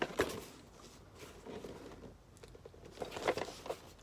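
Rustling and handling noise from a sealed toy accessory package being handled, in two louder bursts, at the start and about three seconds in, with light scraping between.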